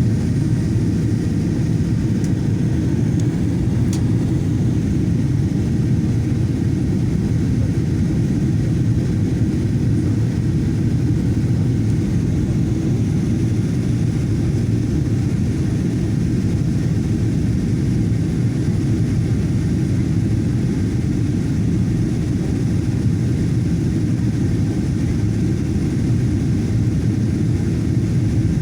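Steady low engine and airflow noise inside the passenger cabin of a Boeing 737-800 in flight.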